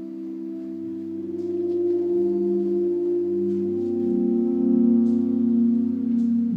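Ambient electronic drone music: several held, layered tones like a singing bowl or organ, the notes sliding to new pitches every second or two, with a few faint clicks.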